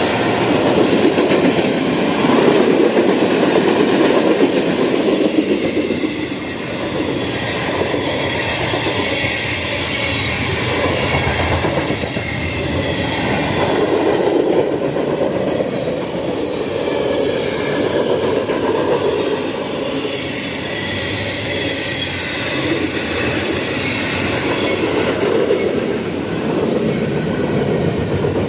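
Freight train cars rolling past at track side, steel wheels clattering over the rail joints in a steady ongoing rumble.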